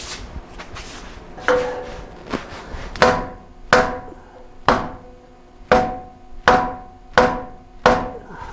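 Hammer blows on a steel exhaust pipe being beaten into place, about eight ringing metallic strikes roughly a second apart, the loudest from about three seconds in, after a few lighter knocks.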